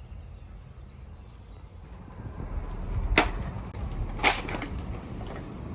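Two sharp knocks about a second apart, over a low rumble that swells in the middle.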